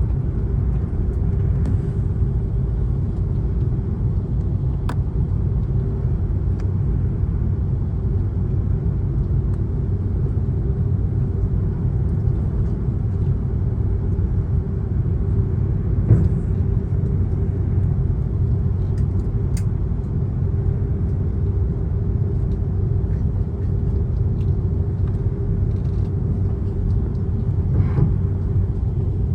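Steady low drone of an airliner's jet engines heard inside the passenger cabin, with a constant hum and a few faint clicks and knocks.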